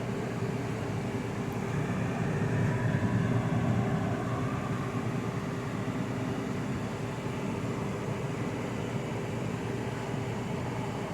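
Air fryer's fan running steadily with a constant hum as the unit cools off after being switched off, swelling slightly a few seconds in.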